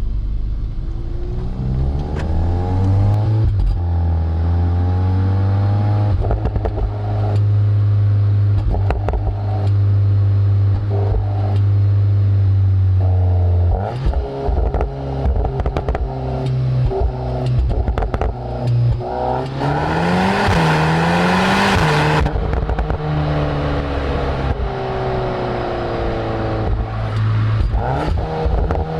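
Exhaust of a Volkswagen Golf R's turbocharged 2.0-litre four-cylinder through an Akrapovic system, heard right at the tailpipes: the engine revs climb and drop repeatedly as the car is driven hard through the gears, with crackles and pops in between. A louder rushing stretch about two-thirds of the way through.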